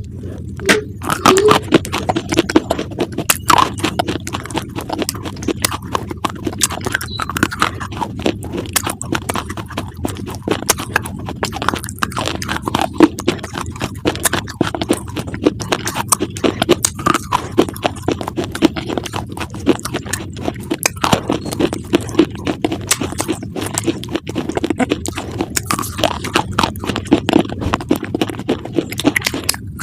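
Close, continuous crunching of crisp food being chewed: a steady stream of rapid crackling crunches with no pauses.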